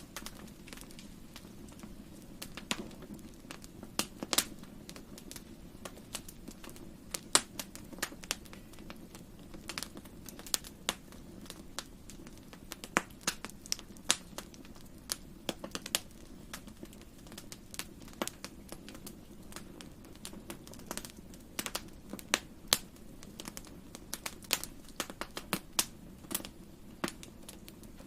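Wood fire crackling in a fireplace: irregular sharp pops and snaps, sometimes several close together, over a steady low rumble of the burning fire.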